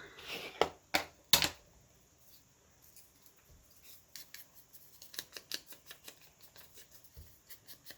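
Scissors cutting paper: a few louder snips and paper rustles at first, then a run of quick small snips after a short pause.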